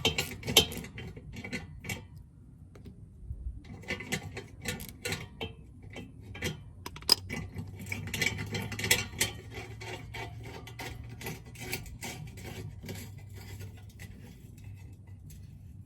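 Irregular small metallic clicks, clinks and scrapes of hands and tools working on a car's exhaust tip and its clamp.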